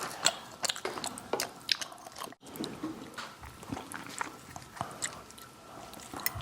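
Close-miked biting and chewing of crispy fried chicken (Jollibee Chickenjoy), a run of short, irregular crunching clicks.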